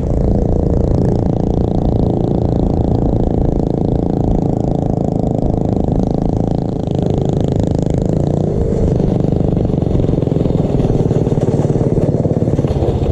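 Small single-cylinder mini bike engine running steadily under way while riding.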